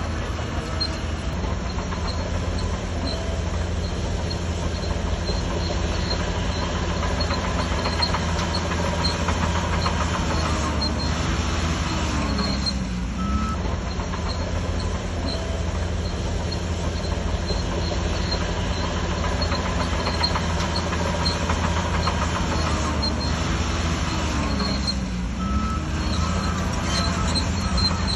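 Heavy diesel engine of a Shantui DH17C3 bulldozer running steadily while it works. Its pitch dips and comes back up twice, about halfway through and again near the end.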